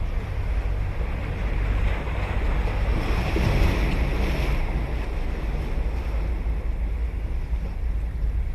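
Ocean waves breaking and washing up a sandy beach, one surge swelling about two seconds in and fading after the middle, over a steady low rumble of wind on the microphone.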